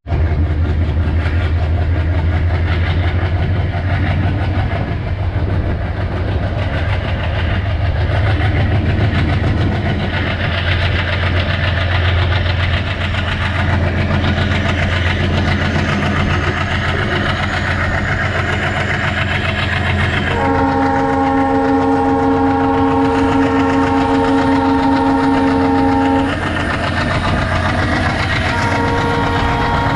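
Diesel-hauled express train running at speed, with a steady low drone and rail noise. The locomotive's multi-tone horn sounds for about six seconds two-thirds of the way in, and again near the end.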